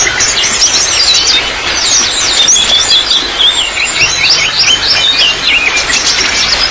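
Trickling water running steadily, with small birds chirping in quick runs of short high notes over it, breaking off briefly a few times.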